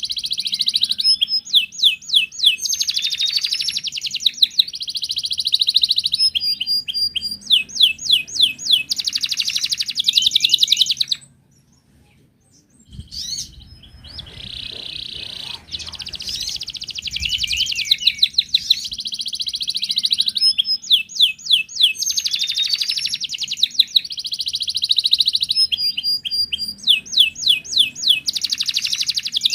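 Wild canary singing a long, continuous song of rapid trills and rolling phrases, breaking off for about two seconds a little before the middle and then starting again.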